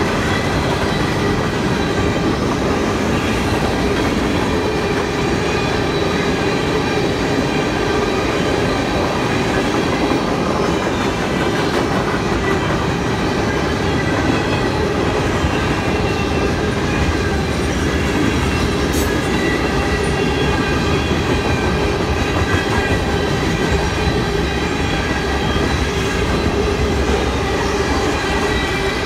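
Freight train cars (tank cars, covered hoppers and boxcars) rolling steadily past at a level crossing, with loud continuous rumble and wheels clattering over the rails.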